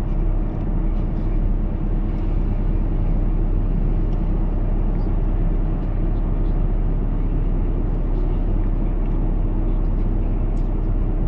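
2006 Ford F-150's engine running steadily but rough, not revving. The roughness is a misfire that the owner ties to the blinking check engine light.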